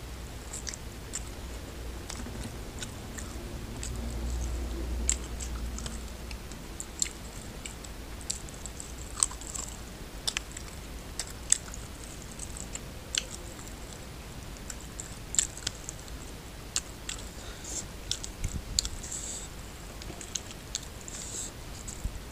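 Close-up mouth sounds of a person eating curried rice and goat meat by hand: wet chewing with many irregular sharp smacks and clicks.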